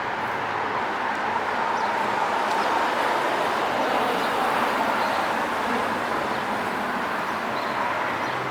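City street traffic: a steady hiss of tyres and engines from passing cars, swelling slightly a few seconds in.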